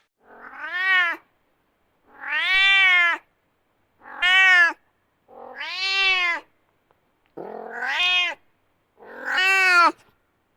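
Domestic cat meowing six times, each meow about a second long, rising and then falling in pitch.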